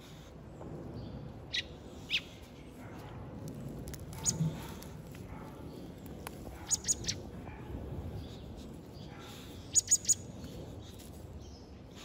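A small bird chirping: short, sharp calls, singly at first and then in quick runs of three.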